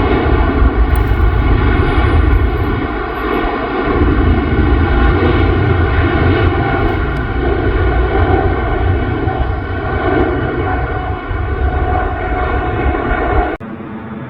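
Boeing 747-8F freighter's four GEnx jet engines at takeoff power: a loud jet roar with a stack of steady whining tones over it. Near the end it cuts off abruptly to quieter music.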